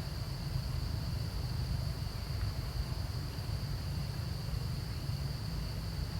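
Steady outdoor ambience: a constant high-pitched insect drone over a low, even rumble, unchanging throughout.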